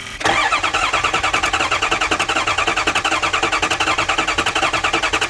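Ford 6.0 Powerstroke V8 diesel being cranked on the starter without firing, a fast, even rhythm of compression pulses that begins abruptly. The engine turns over but does not catch: a no-start.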